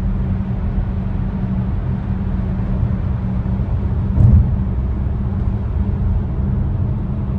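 Steady low road and engine rumble heard from inside a moving vehicle's cabin at highway speed, with one short thump about four seconds in.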